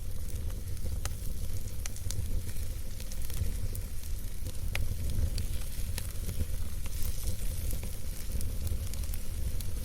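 Wood campfire burning: irregular sharp crackles and pops of the burning wood over a steady low rumble of the flames.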